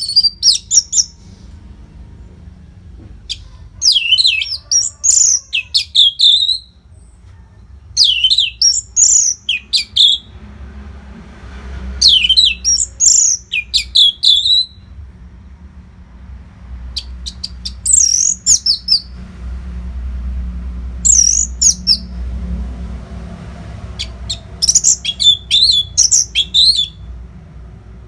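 Orange-headed thrush singing: loud, varied whistled phrases of a second or two each, repeated about every three to four seconds with short pauses between, over a faint low rumble.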